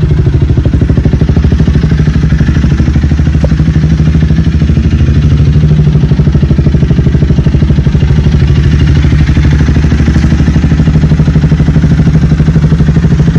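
Honda Rebel 300's single-cylinder engine idling steadily through a pair of aftermarket Vance & Hines-style mufflers, a loud, even exhaust pulse.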